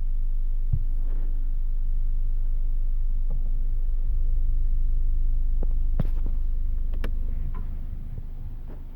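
CT Sounds Meso 8-inch car subwoofer playing a steady, very low bass test tone, with a couple of sharp rattles about six and seven seconds in. The tone drops in level near the end.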